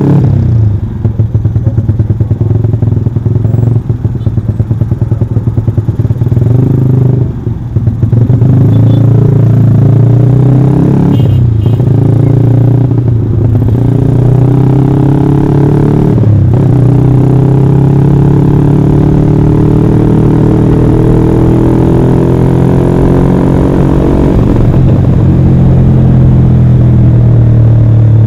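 Yamaha Jupiter MX motorcycle's single-cylinder four-stroke engine running under way. The revs drop and pick up again several times in the first half, then climb steadily for several seconds before levelling off.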